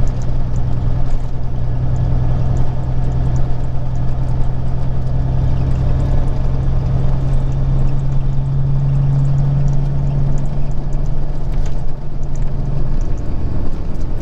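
Peterbilt 379 semi truck's diesel engine running steadily under way, heard inside the cab as a constant low drone with road noise. Near the end the drone eases off.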